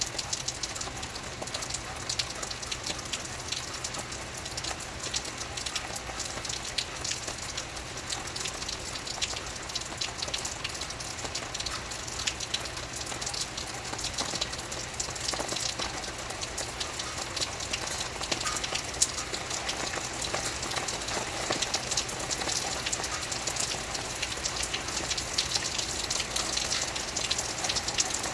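Steady rain falling, a dense patter of drops hitting a surface over a continuous hiss, with a low steady rumble underneath.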